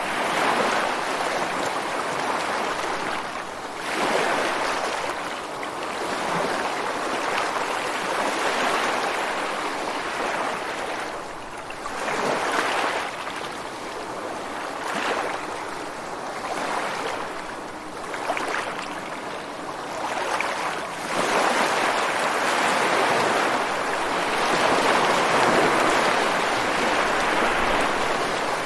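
Ocean surf breaking and washing ashore: a continuous rush of water that swells and eases every few seconds as each wave comes in, with a longer, louder surge in the last third.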